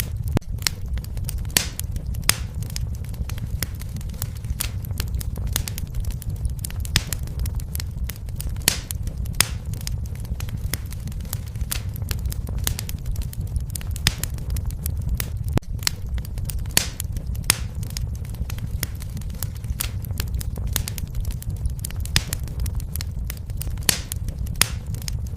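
Wood fire crackling and popping: sharp irregular pops, several a second, over a steady low rumble of flames.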